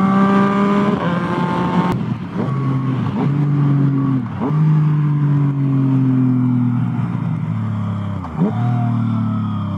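Yamaha FZ-09's 847 cc inline-three engine under way, pitch climbing under throttle and stepping down at gear changes, with several quick sharp dips and recoveries. A single sharp click about two seconds in, and the engine note easing slowly downward through the second half.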